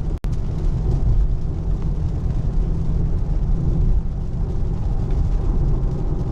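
Steady low road rumble inside the cabin of an electric Tesla Model 3 driving on wet pavement, with tyre noise and no engine note. The sound cuts out for an instant about a quarter second in.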